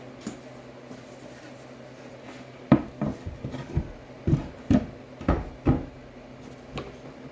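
A run of sharp knocks and clunks, about eight over three seconds starting a few seconds in, with one lighter knock near the end, over a steady low hum.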